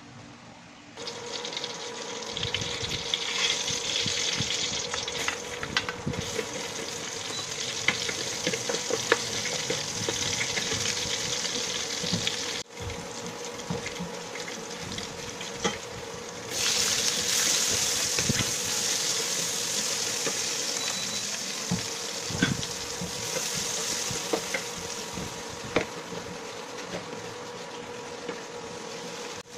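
Chopped garlic sizzling in hot oil in a stainless steel pan, stirred with a wooden spoon that scrapes and taps the pan. The sizzle starts about a second in and grows louder about halfway through, once chopped onion has joined the garlic.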